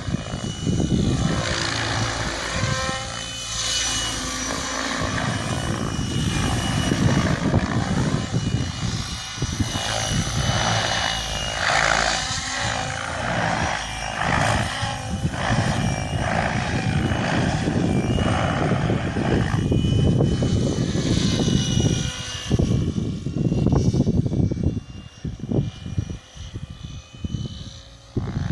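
Electric Mikado Logo 600 RC helicopter in flight: the steady high whine of the motor and drive over the rush of the main rotor blades, shifting as the blades load and unload through manoeuvres. It turns quieter and more uneven in the last few seconds.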